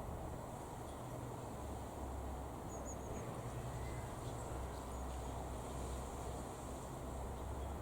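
Four-engine turboprop of an Airbus A400M Atlas transport heard from a distance: a steady low drone. A few faint bird chirps come about three seconds in.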